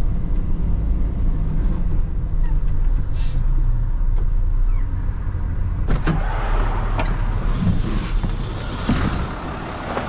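2003 Mitsubishi Fighter dump truck's 7.5-litre common-rail diesel engine running with a low, steady rumble on the move, easing off about four seconds in. A few sharp clicks follow, then a rushing hiss for about two seconds near the end.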